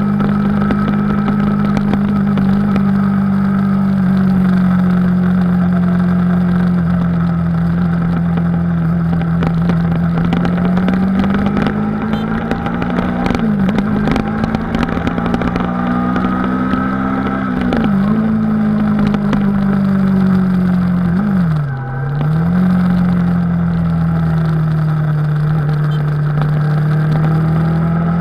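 Yamaha YZF-R3's 321 cc parallel-twin engine running at a steady road speed. Its note dips in pitch and comes back three times, about halfway through, near two-thirds and about three-quarters in, the last dip deepest with a brief drop in loudness.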